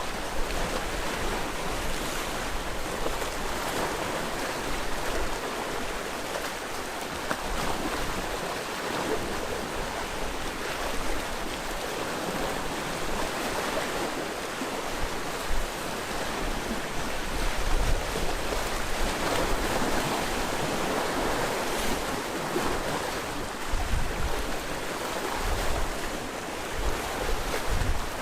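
Sea waves washing on the shore, a continuous surf wash that swells and ebbs, with a few brief low rumbles of wind on the microphone.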